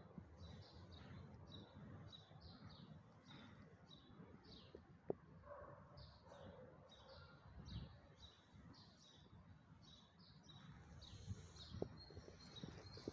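Faint chirping of small birds, a steady stream of short high chirps several a second, over a low rumble. A sharp click about five seconds in and another near the end.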